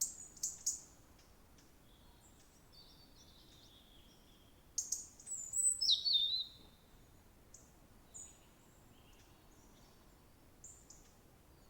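Songbirds singing and chirping: short high calls in the first second, a louder warbling phrase from about five to six and a half seconds in, then scattered fainter chirps.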